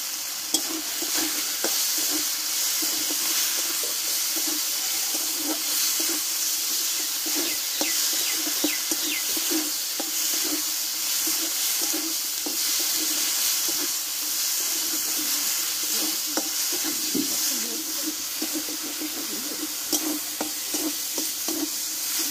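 Chopped tomatoes and spice paste sizzling in hot oil in a metal kadai, with a spatula scraping and stirring against the pan in repeated strokes.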